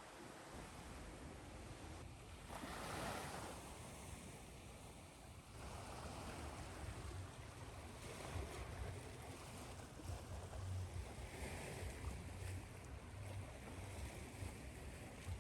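Ocean surf over a steady hiss: waves wash in, with one swelling about three seconds in, over a low rumble.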